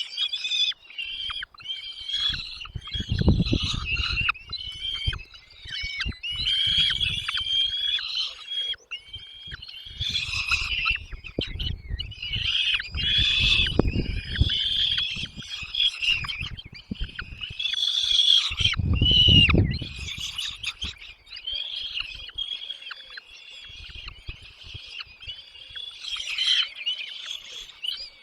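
Nestling songbirds chirping almost without pause in high-pitched, rapid calls, typical of chicks begging for food in the nest. Low rumbles come in three times: a few seconds in, around the middle, and about two-thirds of the way through.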